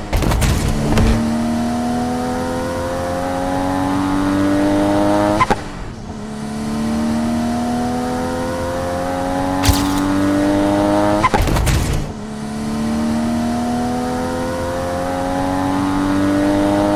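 A car engine accelerating hard through the gears: three long pulls, each climbing steadily in pitch, with a short break and a drop in pitch at each gear change between them.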